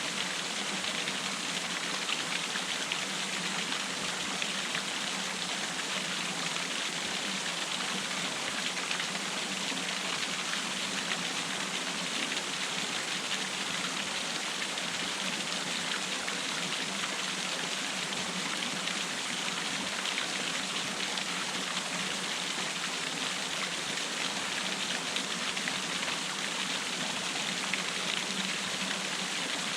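Small waterfall cascade, water splashing and rushing in a steady, unbroken hiss.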